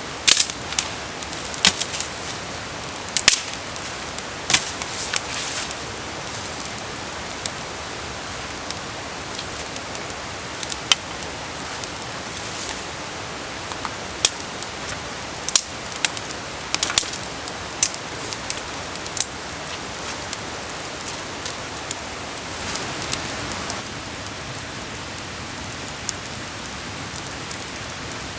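Wood campfire crackling: sharp, irregular pops and snaps over a steady hiss.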